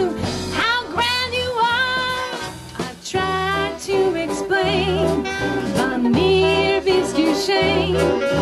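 Swing band music with a woman singing over it and a bass line stepping beneath.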